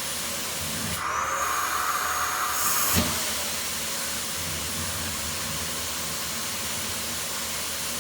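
Household vacuum cleaner running with a steady hiss; about a second in its sound changes for roughly two seconds, ending in a short thump about three seconds in, as the nozzle sticks to and comes off the child's forehead.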